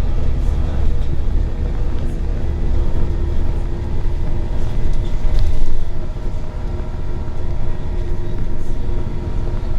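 Scania L94UB bus with a compressed-natural-gas engine running underway, heard inside the cabin: a steady heavy low rumble with a steady drivetrain whine over it, swelling briefly a little past halfway.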